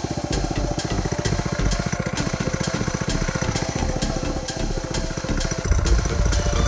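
Small Chinese 125cc engine on a homemade go-kart running in a test after a sprocket gearing change, with a fast, even firing beat. It gets louder near the end.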